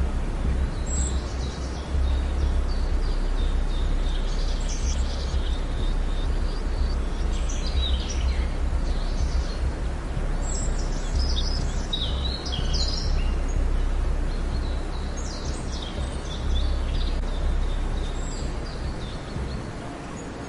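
Birds chirping in short scattered bursts over a steady low rumble and outdoor background noise.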